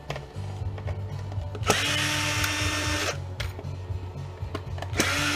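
Handheld power drill running in two bursts of about a second and a half each, with a steady whine that starts and stops sharply, as it drives screws out of the jump starter's housing.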